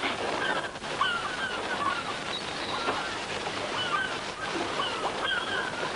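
Birds chirping, many short repeated calls over a steady hiss.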